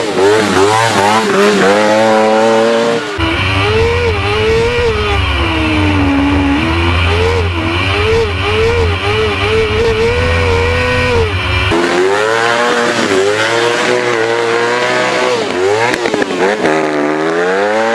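Engine of a bathtub-bodied hillclimb racer running hard, its pitch climbing and falling again and again as it revs up and shifts. A steady low rumble lies under it from about three to twelve seconds in.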